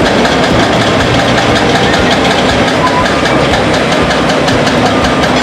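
Heavy construction machine's diesel engine running loudly and steadily.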